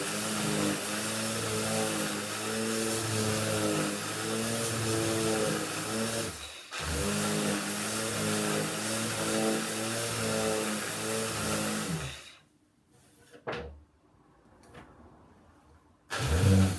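Electric sander running on a wooden tabletop, its motor pitch wavering as it is worked. It cuts out briefly about six and a half seconds in, runs again and stops about twelve seconds in; a few faint knocks follow, then a short loud burst near the end.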